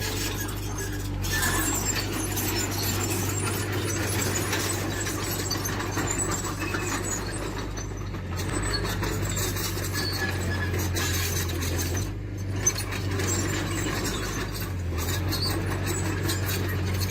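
Heavy diesel construction machine running steadily, with metallic squealing and clinking over the engine and a single sharp knock about twelve seconds in.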